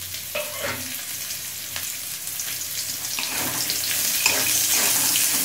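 Chopped onion sizzling in hot oil in a metal kadai, with a steel spatula scraping and stirring it against the pan. The sizzle grows louder over the few seconds.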